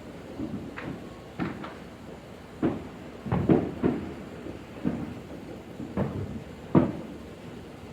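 Consumer fireworks going off around the neighbourhood: firecrackers and aerial bombs that are mostly bangs rather than shells bursting into colour. About a dozen sharp reports come at irregular intervals, some in quick clusters, with the loudest near the middle and another loud one close to the end.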